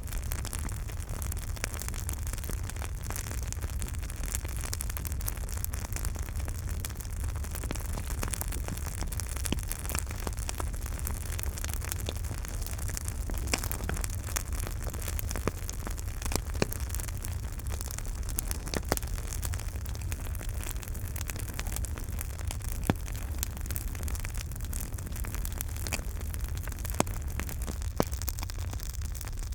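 Campfire burning: a steady hiss over a low rumble, with frequent small crackles and now and then a sharper pop of burning wood.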